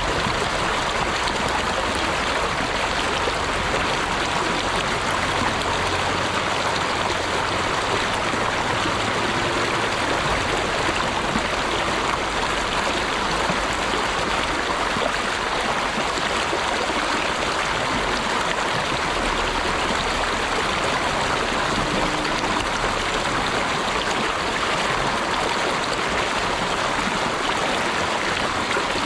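Running water rushing steadily, an even hiss without breaks or changes.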